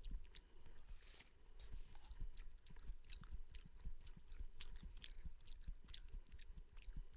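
A person chewing a mouthful of cooked beans close to the microphone: quiet mouth sounds with many small irregular clicks.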